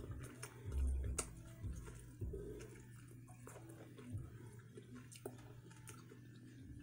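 Close-up chewing and biting of boiled corn on the cob, with scattered small wet mouth clicks and a few soft low thumps.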